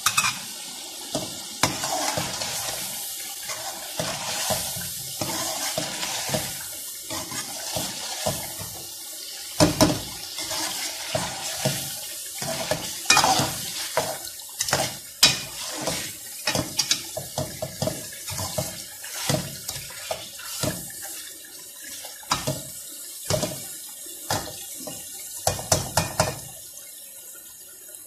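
Chicken korma masala sizzling as it fries in a metal kadai, with a metal spoon scraping and knocking against the pan again and again as it is stirred. The spoon stops shortly before the end, leaving the sizzle. This is the bhuna stage, when the masala is fried until the oil comes up.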